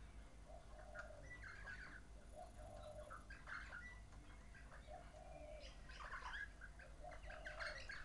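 Faint bird calls: quick high chirps and chatter, with a lower cooing call repeated about every two seconds.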